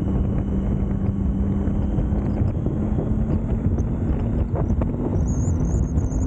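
Triumph Street Triple's inline three-cylinder engine running at a steady cruise, its note rising slowly as the bike gently picks up speed, under heavy wind buffeting on the microphone.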